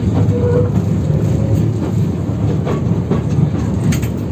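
A 71-608KM tram running along the track, heard from inside: a steady low rumble of wheels on rail with scattered clicks and knocks from rail joints, on a route whose rails are badly worn.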